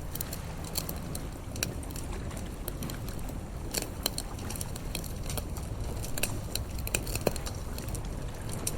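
Bonfire crackling with irregular sharp pops, one louder snap near the end, over a steady low rumble of sea waves.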